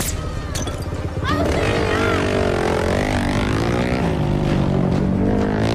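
Motorcycle engine revving, its pitch rising and falling again and again as the throttle is worked, in a film soundtrack mixed with score. There are a couple of sharp hits near the start.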